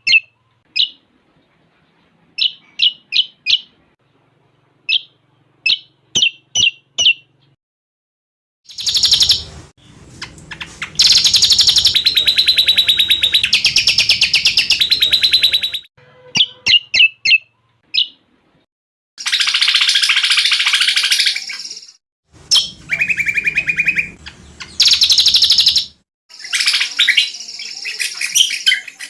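Cucak combok song mixed with cililin calls. It opens with a series of sharp, short, high chirps, then after a brief pause breaks into long, fast, rattling trills several seconds long, alternating with further chirps.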